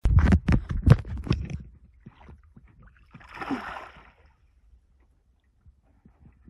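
A quick run of loud knocks in the first second and a half, then a brief rushing noise a little after three seconds in.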